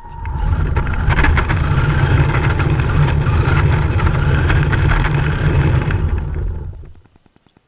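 Radio-controlled drift car driving close by: a steady rush of motor and tyre noise with a deep rumble and many small clicks, coming in just after the start and fading out about seven seconds in.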